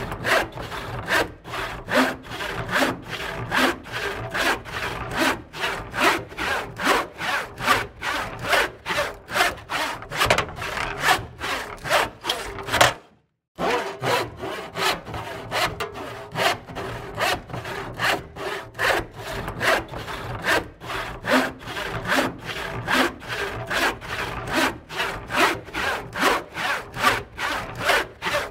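A saw cutting through wood in steady back-and-forth strokes, about two a second. About halfway through the sound drops out completely for half a second, then the sawing carries on.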